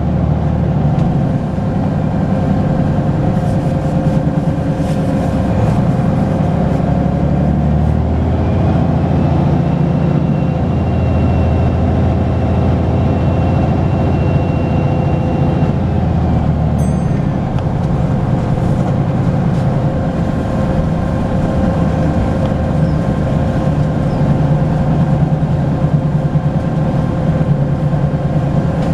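Volvo B10BLE bus's turbocharged diesel engine running under way, with a high turbo whistle that rises about a third of the way in, holds steady for several seconds, then falls away a little past halfway. A brief high ring sounds just after the whistle fades.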